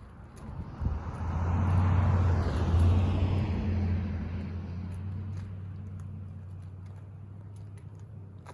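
A motor vehicle passing by: a steady low engine hum with tyre noise swells about a second in, is loudest around two to three seconds, then slowly fades away.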